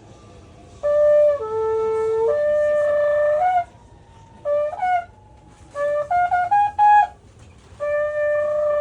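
A trumpet played in phrases: a long held note that drops lower and comes back up, a few short notes, a quick run of rising notes, then a last long held note near the end, with pauses between the phrases.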